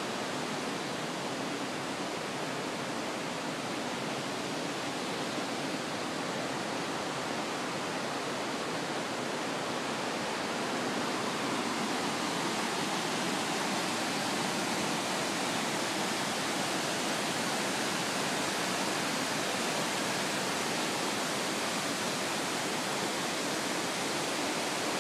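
Waterfall rushing steadily, a continuous even hiss of falling water that gets a little louder over the stretch.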